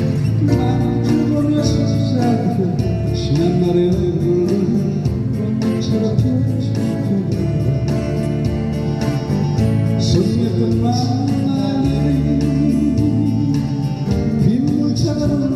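Live band music: a slow Korean 1970s–80s pop song with guitar accompaniment and a wavering melody line carried over it without a break.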